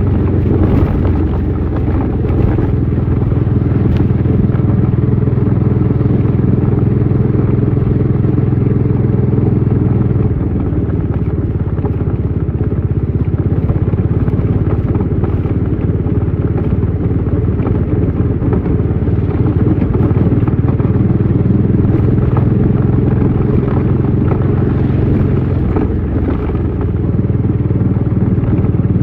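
Bajaj Dominar 400's single-cylinder engine and exhaust running steadily under way on the motorcycle. The engine note changes about ten seconds in and again a few seconds before the end.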